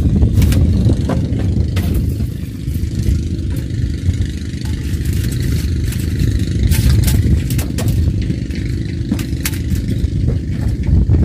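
A steady low rumble throughout, with scattered sharp clicks and light rattles as a fishing rod is handled and taken apart.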